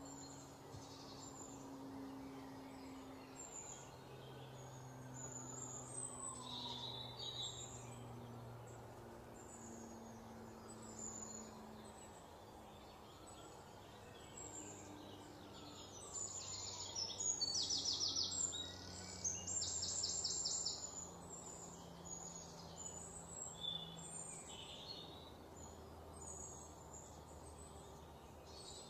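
Faint birds chirping in the background, with a louder run of quick, rapidly repeated high chirps a little past the middle, over a low steady hum.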